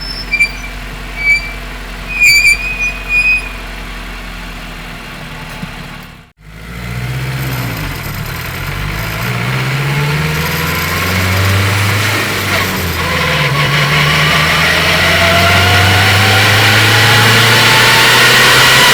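Turbocharged K20 engine of a 2003 Honda Civic Si, heard from the engine bay: idling with a few short high squeaks, then after a brief dropout the car pulls away. The engine note shifts and grows louder, and a thin rising whine builds steadily.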